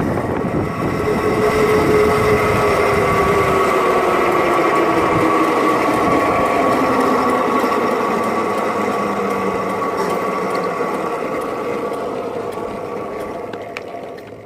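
Electric motorcycle's motor whining steadily, one tone sliding slowly down in pitch as it slows, then fading away near the end.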